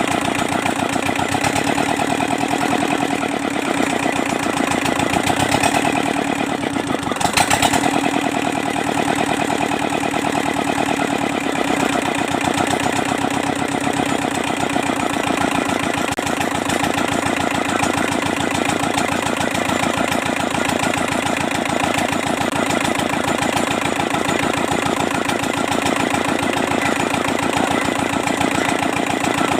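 Kubota Z751 two-cylinder diesel engine running steadily, with a brief louder noise about seven seconds in.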